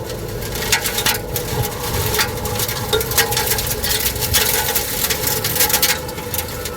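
Tornado wind blowing hard in a dense, steady rush, with frequent sharp knocks and bangs throughout.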